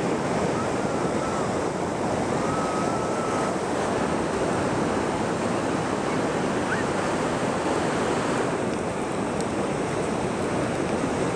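Pacific Ocean surf washing steadily onto the beach, a constant rushing noise with no pauses.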